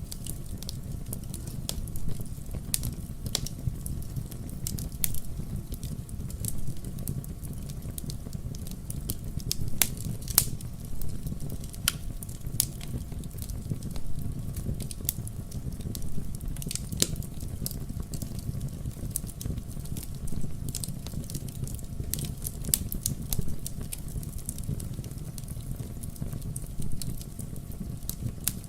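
Wood fire burning in a fireplace: a steady low rumble with irregular sharp crackles and pops, several a second, a few louder snaps among them.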